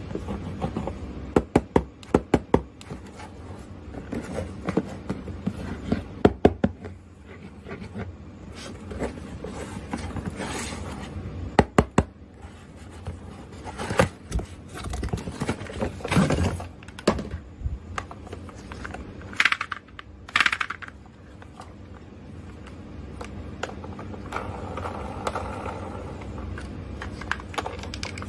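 Small plastic toys and their packaging being handled: clusters of sharp clicks and taps, with scraping and rustling in between.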